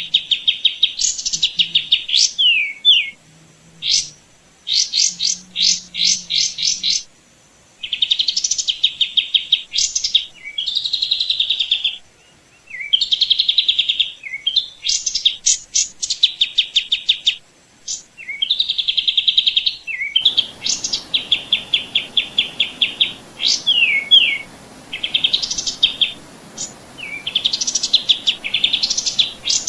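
A songbird singing high-pitched phrases of rapid repeated chirps and trills with short downward sweeps, the phrases broken by brief pauses. A faint steady hiss comes in about two-thirds of the way through.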